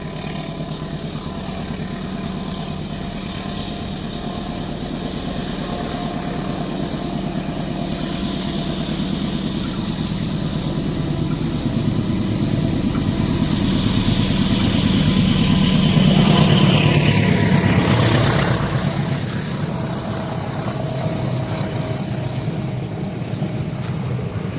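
A train running past a railway level crossing: the rumble builds to its loudest about sixteen seconds in, the pitch falls as it goes by, then it eases off. Faint steady tones sound throughout.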